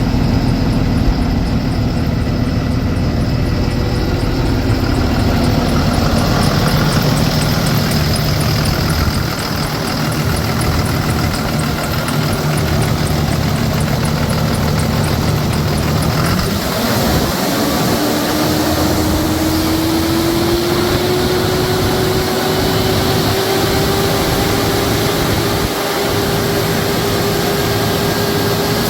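2010 Cummins ISB 6.7 inline-six turbo diesel running steadily. A little over halfway through, a whine comes in and climbs slowly in pitch.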